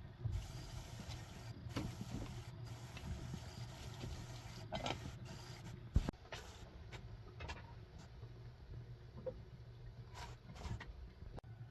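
A motor running steadily with a low hum, with scattered clicks and knocks over it; the sharpest knock comes about six seconds in.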